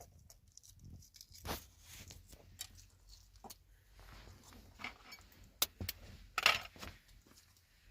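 Scattered handling noises: short clicks, scrapes and brief rustles, with a louder rustle about a second and a half in and the loudest about six and a half seconds in.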